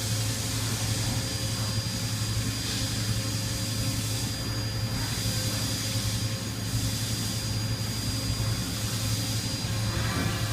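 Toyoda CNC horizontal mill running, a steady low hum with a thin high whine above it and a hiss that swells and fades several times.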